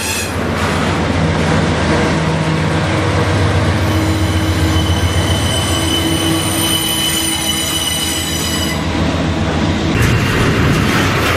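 Double-stack container freight train passing close by: a diesel locomotive's steady engine drone over the rumble of wheels on rail, with a thin, high wheel squeal held for several seconds in the middle. About ten seconds in the engine drone gives way to louder, hissing wheel-and-rail noise from the passing container cars.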